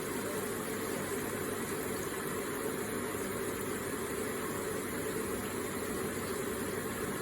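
Electric water feature running: a steady, even flow of falling water.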